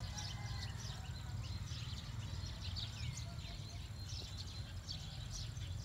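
Several small birds chirping and calling over one another in quick short notes, some sliding in pitch, over a steady low rumble.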